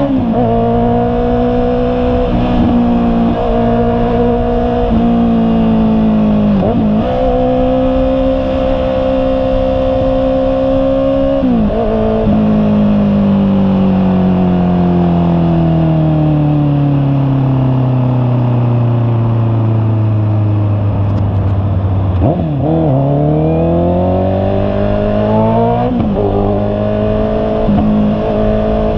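Honda CB650R's inline-four engine under way. It holds steady revs with brief dips at gear changes about 7 and 11.5 seconds in, then the pitch falls slowly as the bike rolls off and slows. Near the end it revs up again through several quick gear changes.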